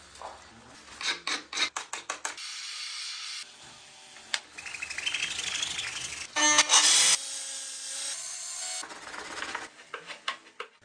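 Hand-tool work on an axe: a series of scraping and rubbing strokes and sharp knocks, with a short rising whine about halfway through.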